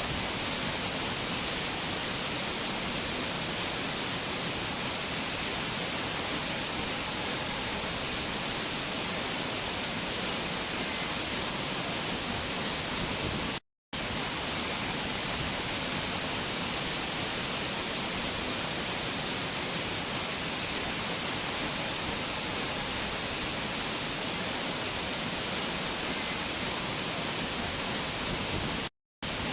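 Steady, even rush of a waterfall, broken twice by a brief drop-out to total silence, about halfway through and near the end.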